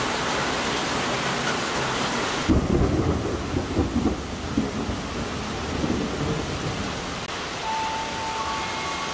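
Heavy rain pouring down as a dense, even hiss. After a sudden change about two and a half seconds in, a softer rain hiss is overlaid by low rumbling thunder for a few seconds, and brief steady tones sound near the end.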